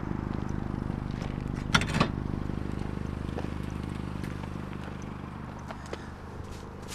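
A motor vehicle's engine idling steadily, with two sharp clanks close together about two seconds in.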